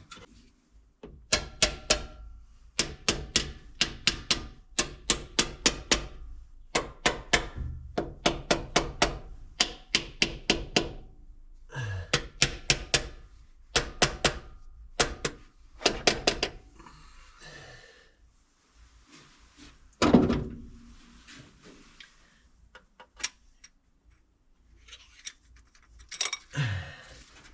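A hammer gives light, rapid metal taps to the valve train of a 1961 Chevy Viking truck engine, to free sticking valves. The taps come in quick bursts of several strikes with a short ringing after each, over the first two-thirds. One heavier knock comes about 20 seconds in, and a few scattered taps follow.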